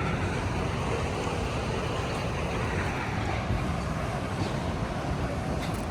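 Steady wind rumbling on the microphone outdoors, an even low noise with no distinct events.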